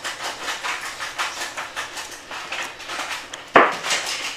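Close-up chewing and wet mouth sounds of someone eating a bite of steamed fish, a run of soft smacks at about four a second, with one louder sharp click about three and a half seconds in.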